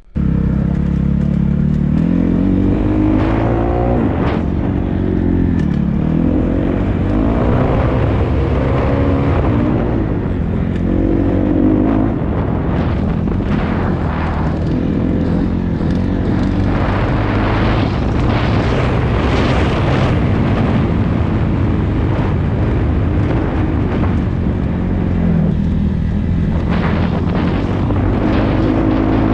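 Dirt bike engine revving up and falling back over and over as the bike is ridden around a motocross track, with the pitch rising and dropping every second or two.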